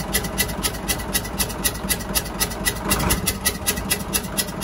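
Hyundai 6D16 inline-six diesel engine idling with a fast, regular ticking knock, about eight ticks a second. The mechanic traces the knock to a damaged valve in cylinder 3, unsure whether the valve stem or the valve seat is at fault.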